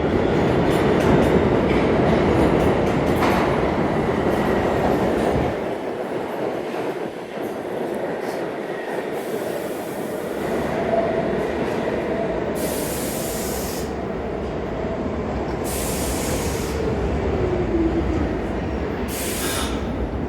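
R46 subway train running on the rails with a steady rumble, its motor whine falling in pitch in the second half as it slows, with several short hisses.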